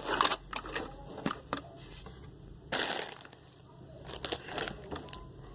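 Crinkling and crunching from a bag of Takis being handled, in scattered short crackles with a louder rustle about three seconds in.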